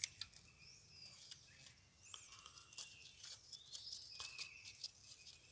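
Near silence, with faint birds chirping now and then in the background and a few light clicks.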